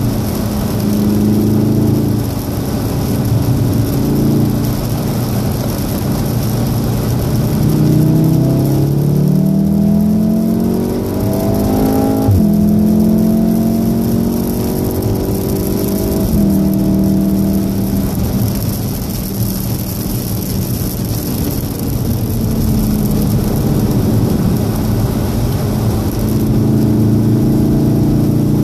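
Golf 7 R's turbocharged 2.0-litre four-cylinder engine heard from inside the cabin under hard acceleration. The revs climb for several seconds and drop sharply at an upshift about twelve seconds in, then the note holds fairly level and later eases, over steady tyre hiss on the wet track.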